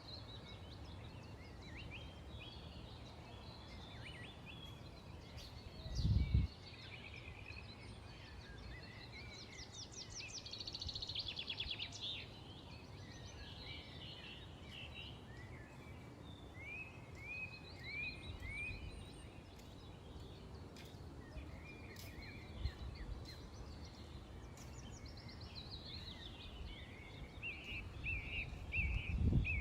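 Several small birds chirping and calling over a steady low background hum, with a fast trill about ten seconds in. A brief low thump comes about six seconds in, and low rumbling near the end.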